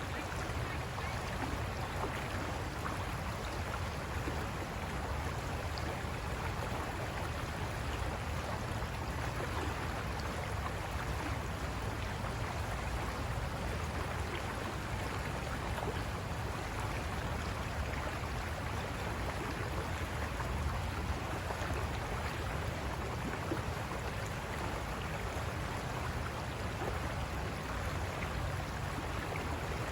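River water rushing over rocks, a steady, even noise.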